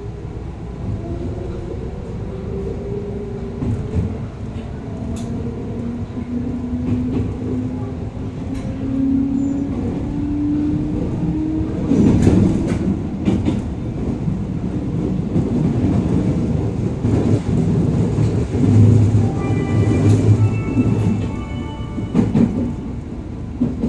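Inside a JR West 221 series electric train as it pulls away and speeds up: the traction motors hum with a slowly rising pitch. About halfway through, the running noise of wheels on rail grows louder and rougher, with knocks over the track. A short run of high tones comes near the end.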